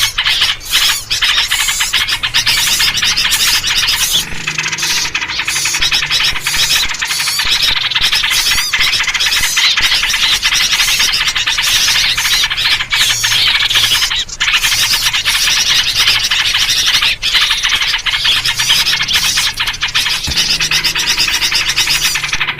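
Dense, continuous chorus of small songbirds chattering and calling over one another, a noisy lure mix in which yellow-vented bulbul (trucuk) calls feature.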